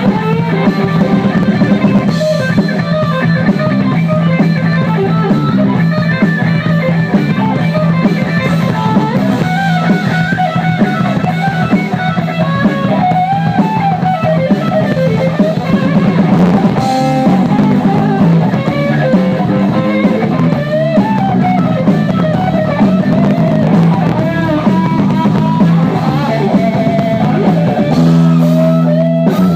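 Live rock band playing an instrumental passage: electric guitar lead line over bass and a drum kit.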